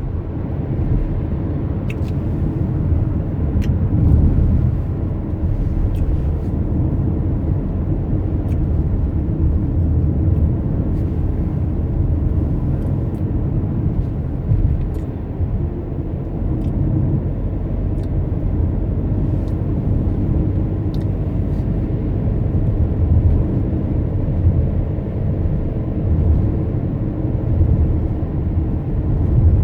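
Steady low rumble of a car's road and engine noise while driving, with a few faint ticks scattered through it.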